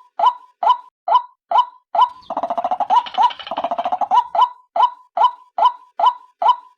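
Recorded lure call of a female white-breasted waterhen (ruak-ruak): a short call note repeated about twice a second. About two seconds in, it breaks into a fast, harsh chattering run lasting about two seconds, then the steady repeated notes resume.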